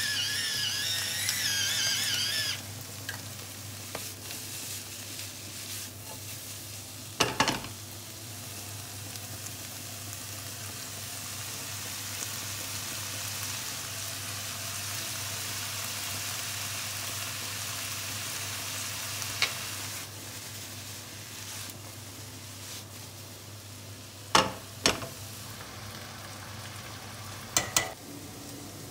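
Chicken and vegetable stir-fry sizzling steadily in a hot wok. For the first two seconds or so an electric pepper grinder whines over it, and a few sharp knocks come later, two close together near the end.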